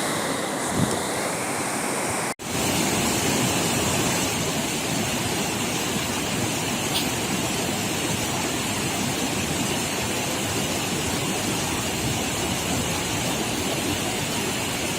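Steady rush of flowing river water. It cuts out briefly about two seconds in.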